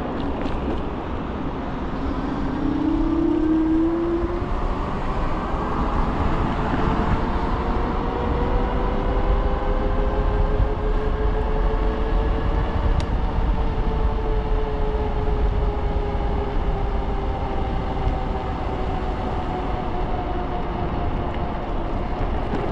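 iKingi S6 Pro electric scooter being ridden: a whine whose pitch slowly rises and falls with speed, over a steady rumble of road and wind.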